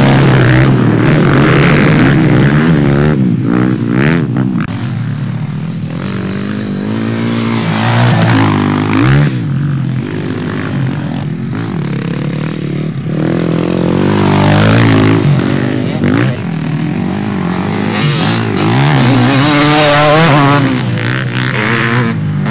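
Several motocross bikes racing past, their engines revving up and dropping off over and over as they swell louder and fade, with more than one engine note overlapping.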